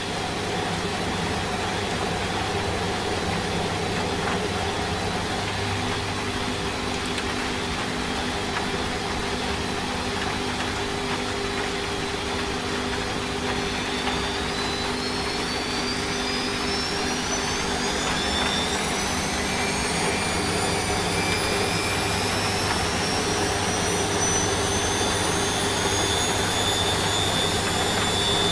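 Washing machine running with a steady hum; from about halfway its motor whine rises steadily in pitch as the drum speeds up into the spin cycle.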